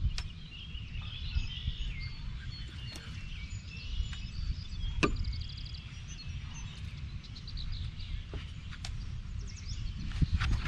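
Wild birds chirping and singing, with a couple of rapid trills, over low wind rumble on the microphone. A few sharp clicks stand out, and the sound gets louder near the end.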